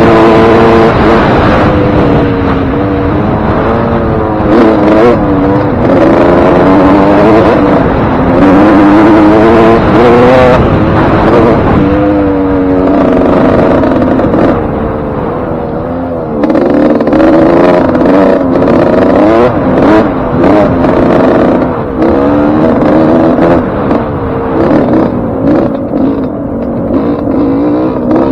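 Suzuki RM125's single-cylinder two-stroke engine revving up and down as the dirt bike is ridden, its pitch rising and falling with the throttle, with a short easing off a little past halfway. The engine's top end has just been rebuilt with a new piston ring and wrist pin.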